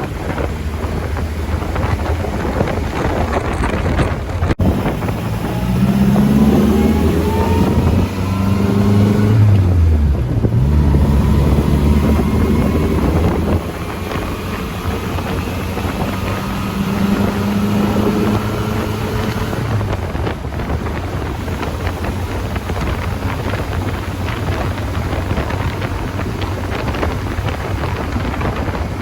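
Car engine accelerating, its pitch climbing, dropping at a gear change, then climbing again before settling to a steady cruise, with wind buffeting the microphone throughout.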